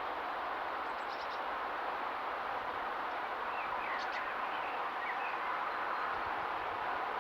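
Small garden birds give a few short, high chirps, about a second in and again around four to five seconds in, over a steady background hiss.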